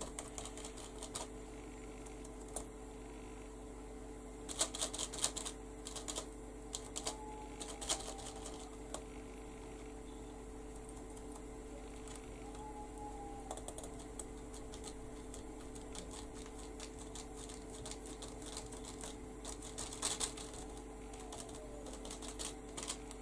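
Sponge dabbed repeatedly onto paper, giving irregular clusters of soft taps, over a steady low hum.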